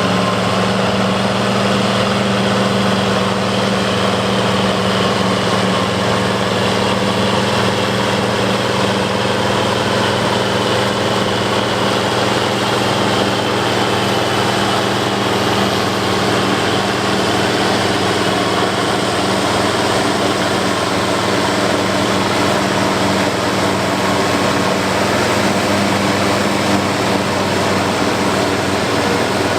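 International 1086 tractor's turbocharged six-cylinder diesel running steadily under load while chopping in the field, with a faint high whine over the engine.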